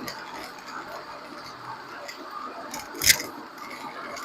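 Close-miked sound from near the left rear wheel of a 30-series Toyota Prius with over 120,000 km: a steady hiss with light, irregular ticking and one sharp click about three seconds in. This is the unexplained noise that the owner wonders may be the rattle typical of an early hub bearing fault.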